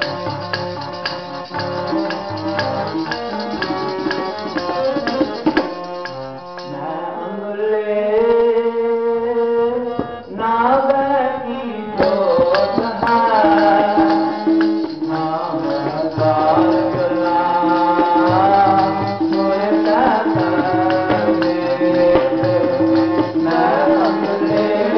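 Sikh kirtan music: gurbani hymn sung over a steady harmonium, with tabla and jingling percussion keeping a fast rhythm. The singing comes in with long held, sliding notes about a quarter of the way through.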